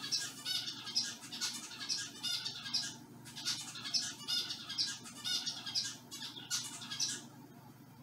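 Pet bird calling in a long run of rapid, high-pitched calls that stops shortly before the end.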